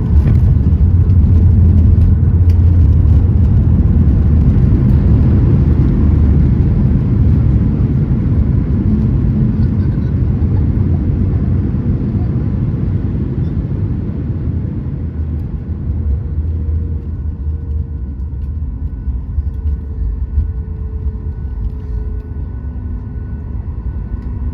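Cabin of a Boeing 737 MAX 8 rolling on the ground after landing: a heavy low rumble of the jet's engines, wheels and airframe that gradually dies down as the aircraft slows.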